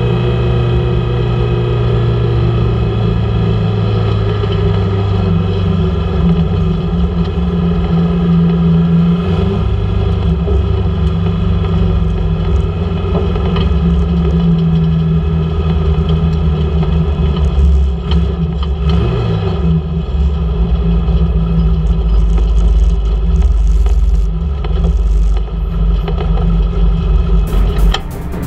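Mini stock race car's four-cylinder engine, heard from inside the cockpit, running steadily with small rises and falls in pitch as the car drives slowly. Near the end, a brief burst of rattling noise.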